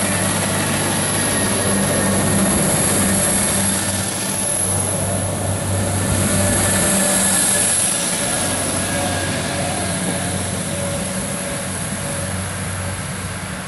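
Diesel passenger train running past at speed: a steady low engine drone over the rush of wheels on rail, slowly fading as the train draws away.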